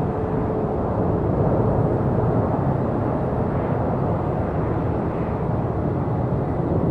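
Steady, deep jet-engine rumble of a departing Boeing 747-400F freighter.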